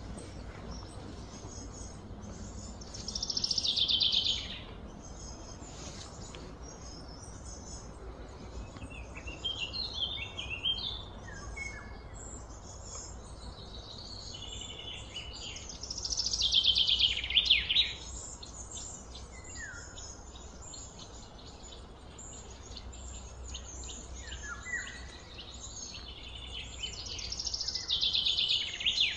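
A songbird sings three loud phrases of quick, high, rising and falling notes, about twelve seconds apart: one early, one in the middle and one near the end. Between them come fainter high chirps over a steady low background hum.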